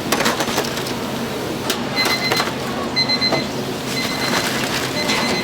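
Busy stall clatter with scattered knocks, and from about two seconds in an electronic beep repeating about once a second.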